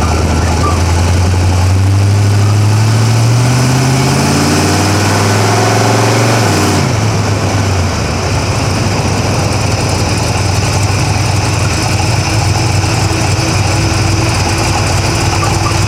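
Drag-racing Camaro's engine pulling with its pitch climbing steadily for about six seconds, then dropping sharply as it comes off the throttle and settling into a steady lower running note.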